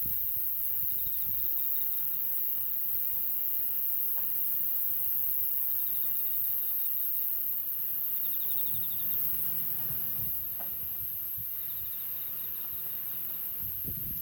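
Night insects, crickets among them, calling steadily outdoors, with short pulsed trills four times, over a wood fire's faint low rumble and a couple of small pops.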